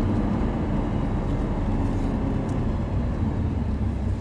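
2019 Lamborghini Huracán's V10 engine running steadily at low speed, with no revving, heard from inside the open-top cabin along with road and wind noise.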